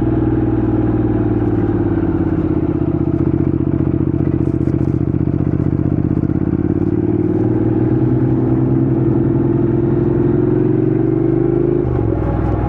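Honda NC750X parallel-twin engine running steadily under way, its pitch climbing slowly and then dropping suddenly near the end.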